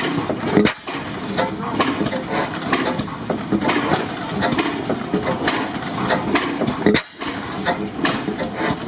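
Antique stationary gas engines running, a busy irregular clatter of clicks and knocks. The sound drops out briefly twice, about a second in and near the end.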